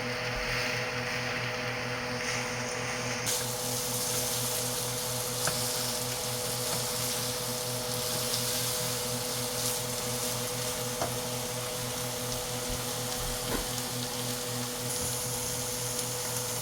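Boiled chickpeas (chana) with onion and garlic frying in oil in a pan, with a steady sizzle that grows louder about three seconds in and a few light clicks. A steady hum runs underneath.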